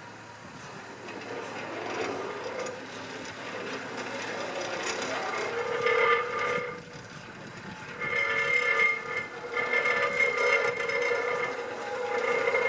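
Steam locomotive Avonside 1764 shunting: its running noise grows louder over the first few seconds, then its steam whistle sounds, a short blast about six seconds in and a longer, broken blast from about eight seconds in.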